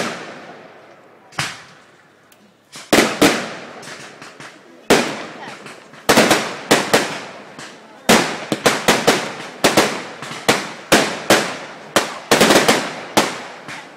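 Fireworks going off in a series of sharp bangs, each dying away quickly. They are spaced a second or more apart at first, then come faster, about two or three a second, through the second half.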